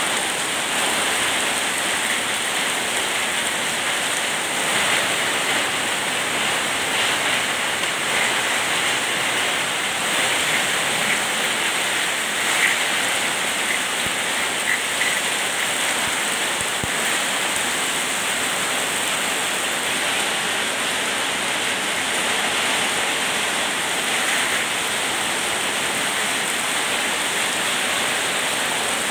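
Heavy rain pouring onto a flooded street, a steady hiss of drops splashing into standing water.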